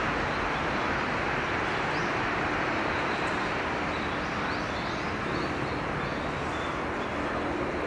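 Steady outdoor rushing noise, with a few faint, short, high bird chirps over it.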